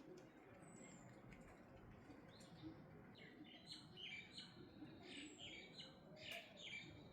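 Faint birdsong: a quick run of short chirps starting about two and a half seconds in, with a couple of thin, high, falling whistles, over a low background rumble.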